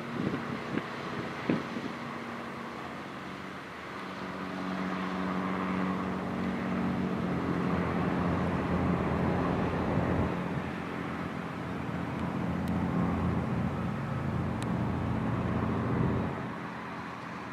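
A motor engine's steady low drone that swells about four seconds in, holds and fades away near the end, as it would from something passing close by, over constant outdoor background noise. A few sharp knocks come in the first second or so.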